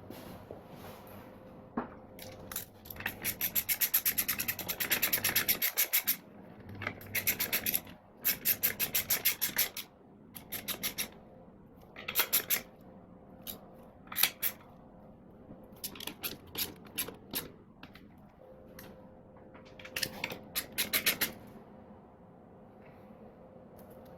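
Socket ratchet clicking in quick bursts of even clicks as bolts are run in and tightened on an engine's timing belt cover, with short pauses between bursts.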